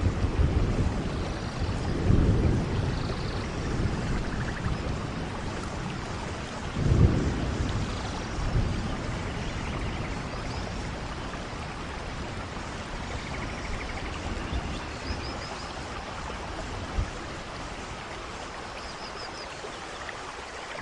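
Steady rain hiss with low rolls of distant thunder, the loudest about seven seconds in, and a few faint high chirps.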